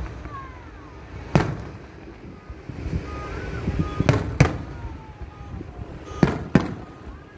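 Aerial firework shells bursting, five sharp bangs: one about a second in, then two close pairs around four and six seconds in.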